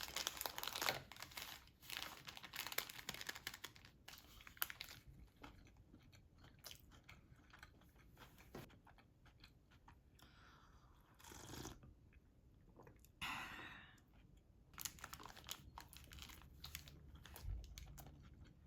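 Faint, irregular crunching and crackling with scattered small clicks, and a couple of longer rustling swishes a little past the middle.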